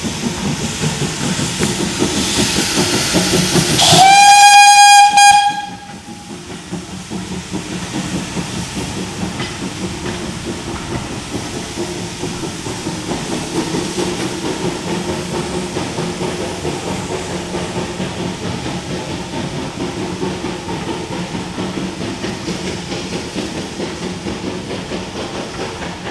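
Steam locomotive running on a heritage railway, sounding its whistle once for about a second and a half, about four seconds in. The rest is the steady running of the train with rhythmic rail clatter.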